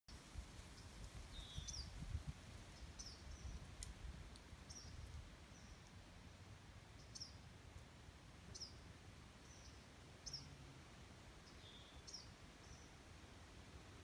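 Birds chirping faintly by a lake: short, high, quickly falling chirps, often in pairs, repeated every second or two. A low rumble sits under them in the first few seconds.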